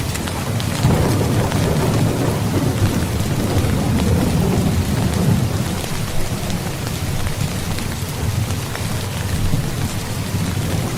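Steady rain falling, with a low rolling rumble of thunder that swells about a second in and fades after about five seconds.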